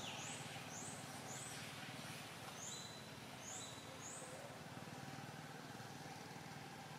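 Faint bird calls: short high chirps, each rising sharply, repeated about six times in the first four seconds. A steady low background rumble runs underneath.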